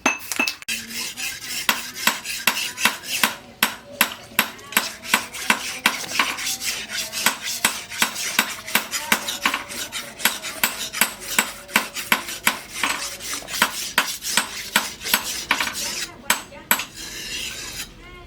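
Quick, repeated scraping strokes of hand work on a steel knife blade, about three to four a second. They carry none of the ringing tone of a hammer on the anvil, and they thin out near the end.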